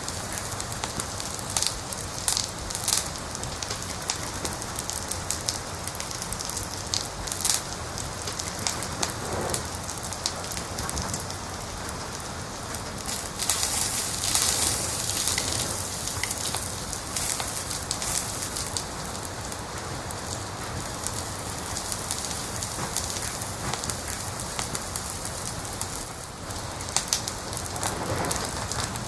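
Crackling fire: irregular sharp pops and snaps over a steady hiss, the hiss swelling for a couple of seconds about halfway through.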